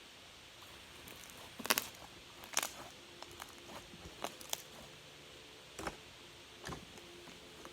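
Slime being handled, giving a scattered series of short, sharp pops and clicks, about six over a few seconds, the loudest near the start.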